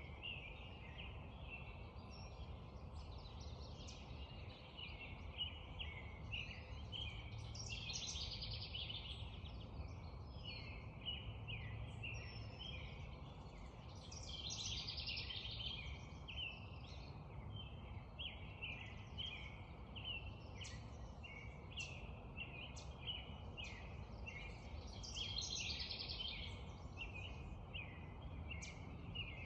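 Spring dawn chorus: several songbirds chirping and singing without pause, with one fuller song repeating about every seven to ten seconds, over a low steady rumble.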